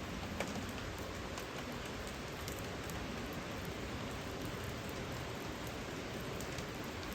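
Steady rain falling, with the odd single drop ticking sharply above the patter.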